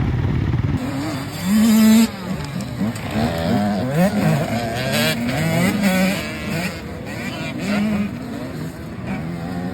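Several motocross dirt bikes racing on the track, their engines revving up and down through the gears over one another. The loudest burst comes about one and a half to two seconds in.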